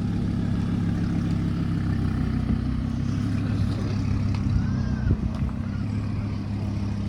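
A car engine running steadily at idle, its low hum holding an even pitch throughout.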